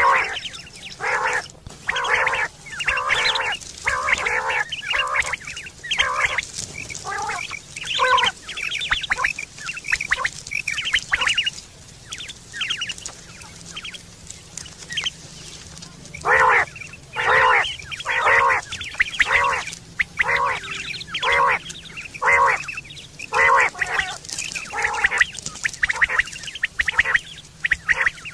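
Common quail calling, a long series of short, sharp repeated notes about once or twice a second, with a quieter stretch midway. It is a recording of the kind played as a lure call for hunting quail.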